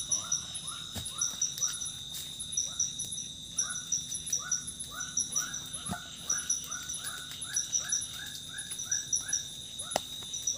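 Tropical forest chorus: insects keep up a steady high buzz and a pulsed high chirping, while an animal repeats a short rising call about three times a second in runs, pausing briefly a couple of seconds in. A few faint clicks sound over it.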